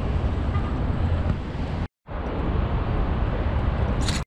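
Steady low road and engine rumble inside a moving car's cabin, cutting out briefly about two seconds in; a short hiss comes just before the end.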